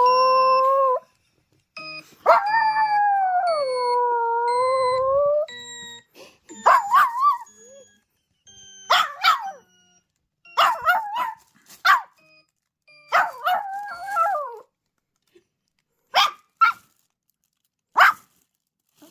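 Maltipoo puppy howling: one long wavering howl ends about a second in, and another runs from about 2 to 5 seconds. Shorter broken howls and yips follow until about 15 seconds, then a couple of short sharp yelps. Faint short electronic tones sound under the first few seconds, the sound the puppy is howling along to.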